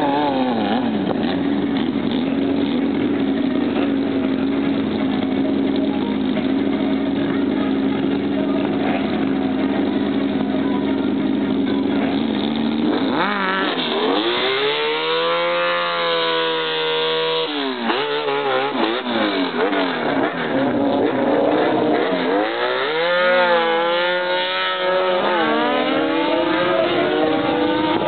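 Four-cylinder 750 cc sport motorcycles at a drag-strip start: one engine held at steady high revs in a haze of noise, with tyre smoke from a burnout. About halfway through they launch, and the engine notes climb in pitch and break at each gear change as they accelerate away, with a second climbing run near the end.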